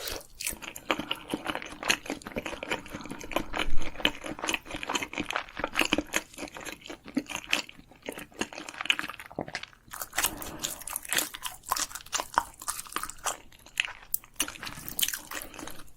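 Close-miked eating sounds of spicy Korean food: a person chewing and biting, with many irregular short crunches and wet clicks of the mouth.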